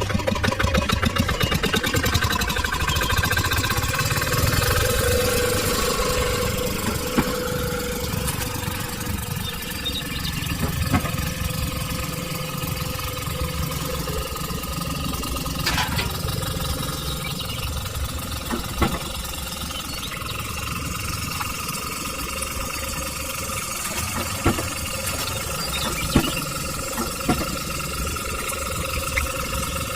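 A small engine running steadily, with a few sharp clicks or taps scattered through.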